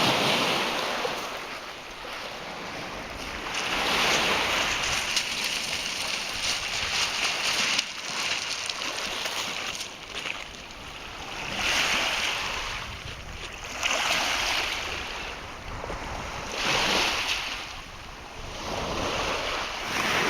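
Lake Ontario waves breaking on the shore, the wash swelling and fading every few seconds.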